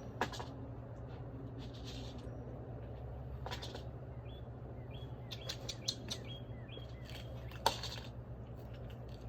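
Faint small-bird chirps, short and high, repeated at intervals, over a steady low hum, with scattered sharp clicks and taps.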